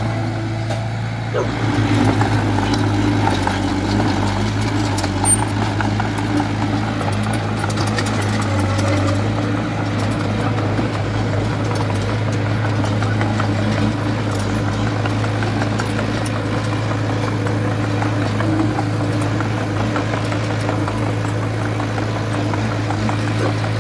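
Diesel engine of a small Komatsu D20A crawler bulldozer running steadily at an even pitch, with a few light knocks in the first few seconds.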